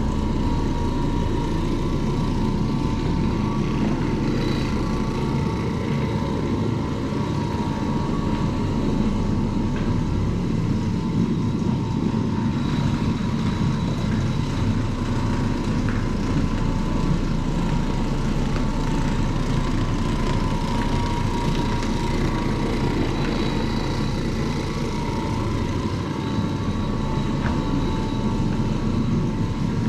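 Carpet-cleaning machine running steadily over carpet, a constant motor drone with a faint steady whine.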